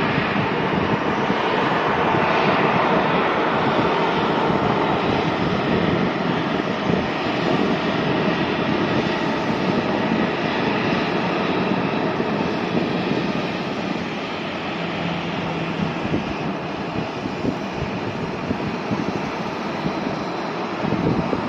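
Airliner's jet engines, a loud steady rush with a faint falling tone in the first few seconds, easing a little past the middle.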